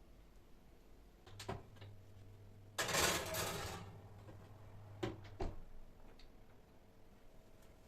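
Kitchen handling sounds: a few sharp clicks and knocks like cupboard doors or drawers, a loud rustling rush about three seconds in, and a low hum that starts with the first clicks and stops with the last ones.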